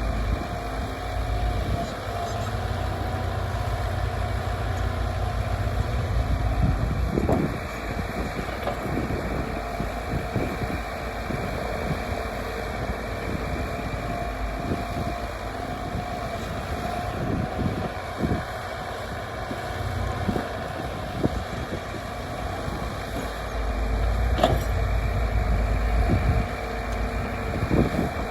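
A vehicle engine running steadily, with wind buffeting the microphone in patches and a few short knocks.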